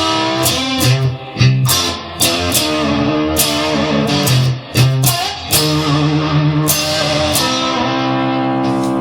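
Instrumental passage of a blues-rock song led by electric guitar, with no singing; a chord is held steadily near the end.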